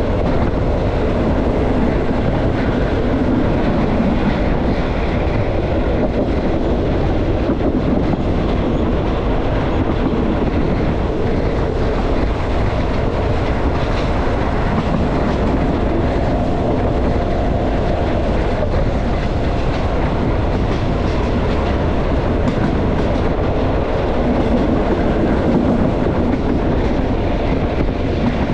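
Thai passenger train (northern line, train No. 51) running steadily along the track: a continuous, even noise of wheels on rails, with no change in speed or level.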